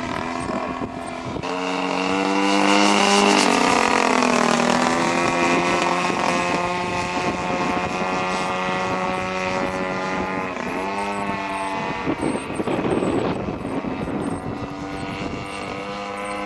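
An engine running steadily with a pitched hum. Its pitch shifts a few times, with noticeable changes about four seconds and eleven seconds in.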